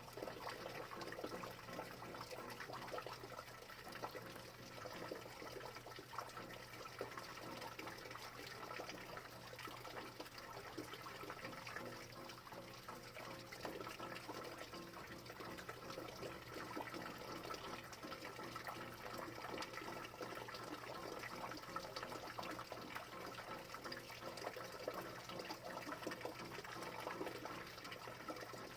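Steady rain falling, a dense patter of drops with no let-up, over a faint steady low hum.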